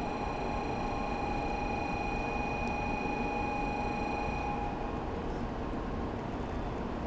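N700 series Shinkansen pulling into the platform, with a steady low rumble of the approaching train. A steady high-pitched tone sounds over it and stops about four and a half seconds in.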